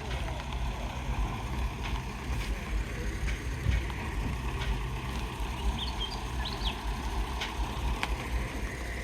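Low loader truck on the move: a steady low rumble of engine and road noise.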